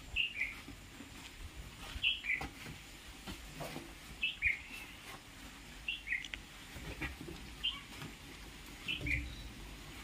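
A small bird calling over and over: short two-note chirps, a higher note dropping to a lower one, about every two seconds. A few soft knocks are heard in between.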